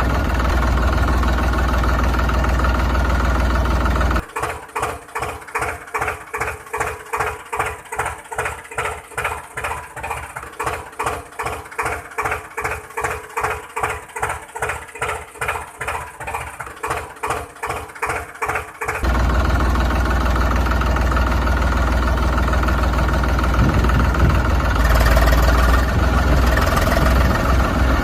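Vehicle engine sound running steadily, then for about fifteen seconds chugging in a regular pulse at nearly three beats a second over a steady hum, then steady again, with an added hiss near the end.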